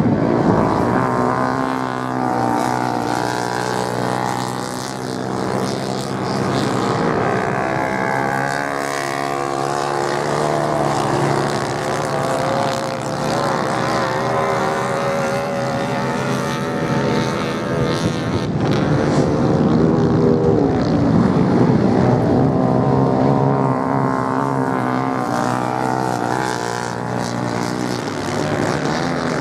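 Racing motorcycle engines running continuously, their pitch rising and falling through the gears as the bikes accelerate and pass, with several engines sounding at once.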